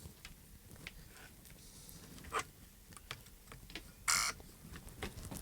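Small plastic clicks and taps from handling the parts and screws of a handheld radio transmitter being taken apart. One sharper click comes about two and a half seconds in, and a short scrape or rustle about four seconds in is the loudest sound.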